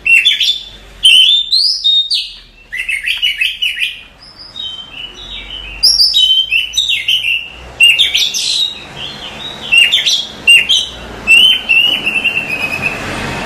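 Oriental magpie-robin (kacer) singing: loud, varied phrases of clear whistles and quick chirping notes that slide up and down, broken by short pauses.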